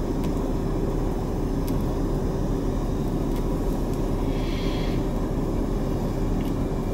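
Steady low hum of a parked car with its engine running, heard from inside the cabin, with a soft breath about four seconds in.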